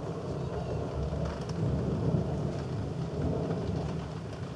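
Thunder rumbling low and long through a rain shower, with rain hissing underneath.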